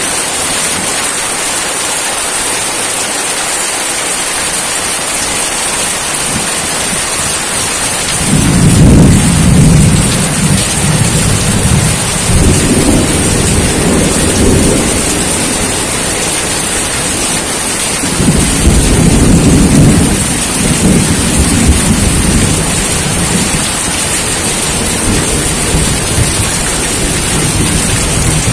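Steady heavy rain hissing, with rolling thunder: a long low rumble swells about eight seconds in and another about eighteen seconds in, each rolling on for several seconds.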